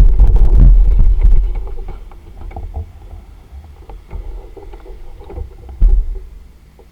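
Wind buffeting the microphone in gusts: heavy for the first second and a half, then easing off, with one more short gust about six seconds in.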